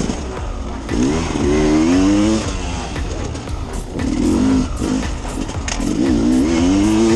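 Enduro motorcycle engine revving in three rising-and-falling bursts, about a second, four seconds and six seconds in, over a steady low rumble with scattered knocks.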